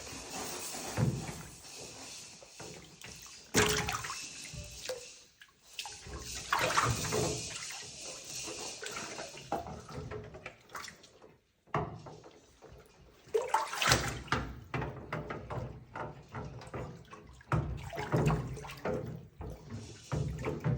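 Water splashing and sloshing in a bathtub as a pet monkey plays and swims in it, with irregular splashes and a few knocks against the tub.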